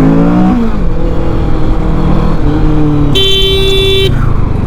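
Kawasaki Ninja 650's parallel-twin engine pulling under acceleration, its pitch rising and then dropping with an upshift about half a second in, then running steady with wind rush. About three seconds in, a vehicle horn sounds once for about a second.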